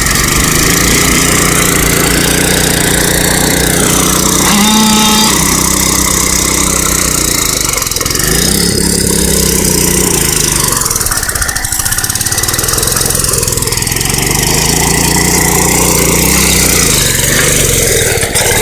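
Mini bike's small engine running hard, its pitch rising and falling several times as the rider revs it up and down in the mud.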